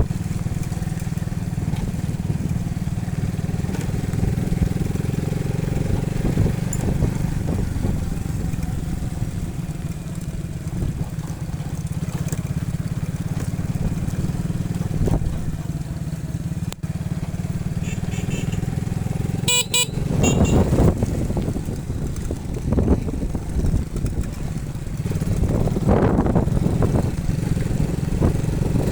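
Motorcycle engine running steadily under low wind-like rumble. About two-thirds of the way through there is a brief horn-like toot, and after it the engine surges louder a few times.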